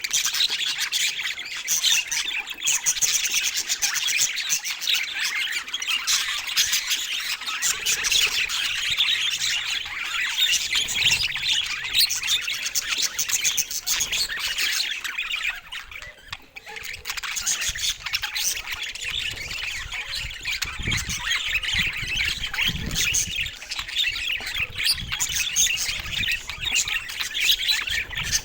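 A group of budgerigars chattering, with many overlapping chirps, warbles and squawks running continuously, easing briefly a little past halfway.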